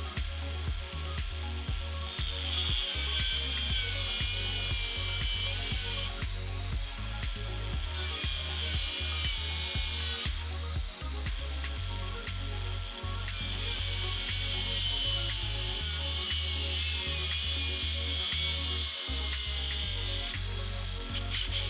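A machine tool cutting stainless steel, making a high, wavering cutting noise in three stretches: about two to six seconds in, around eight to ten seconds, and from about thirteen to twenty seconds. Under it runs a steady low motor hum.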